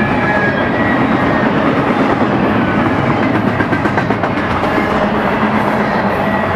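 BNSF intermodal freight train rolling past, a steady loud rumble of steel wheels on the rails. A run of wheel clacks comes over the rail joints about halfway through.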